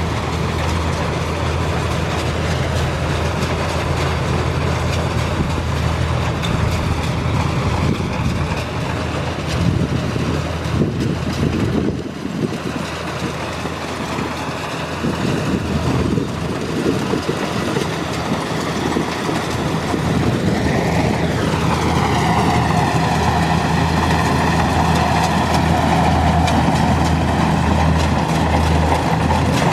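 Kubota rice combine harvester running steadily under load. About two-thirds of the way through, a whine sweeps in and then holds at a steady higher pitch over the engine.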